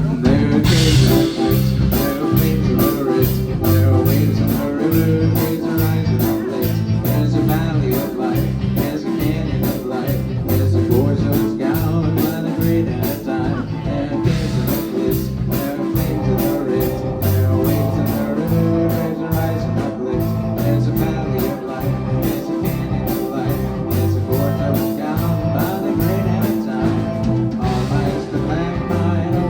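Live band playing a song, with guitar and drums and a steady cymbal beat running through it.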